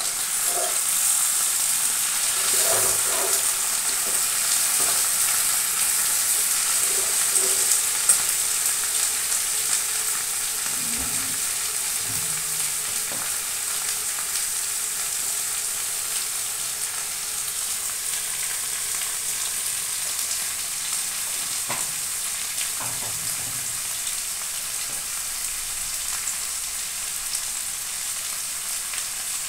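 Brinjal, tomato and green chilli sizzling in oil in a non-stick kadai, with a metal slotted spatula now and then knocking and scraping against the pan as the vegetables are stirred. The sizzle eases a little after the first several seconds.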